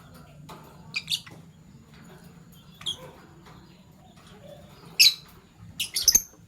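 Fischer's lovebirds giving short, sharp, high-pitched chirps: a couple about a second in, one near three seconds, a loud one about five seconds in and a quick cluster near the end.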